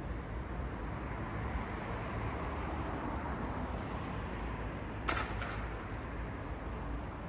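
Night-time city street ambience: a steady rumble of distant traffic. Two sharp clicks come close together about five seconds in.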